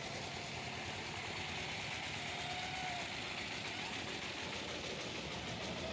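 Steady background noise with a low, engine-like rumble and hiss, and a faint short whistle-like tone about two and a half seconds in.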